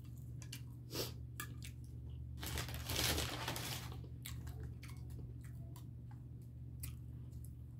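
Close-up chewing and mouth sounds of someone eating cinnamon French toast, with scattered wet clicks and smacks. About two and a half seconds in, a hissy rush of noise lasts about a second and a half. A steady low hum runs underneath.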